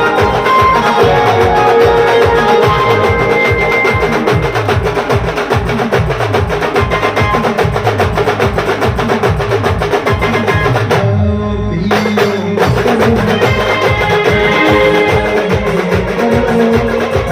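Band music with fast, steady drumming under sustained melody lines. About eleven seconds in, the drums drop out for a second or so, then the full band comes back in.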